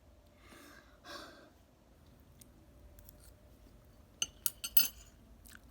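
Eating utensils clicking against a bowl: a quick cluster of four or five sharp clinks about four seconds in, after a faint breath-like sound about a second in.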